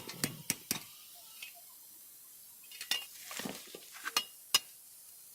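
Sharp metallic clinks and taps of metal parts or tools being handled. A quick run of them comes at the start and another cluster about three to four and a half seconds in, the last one the loudest.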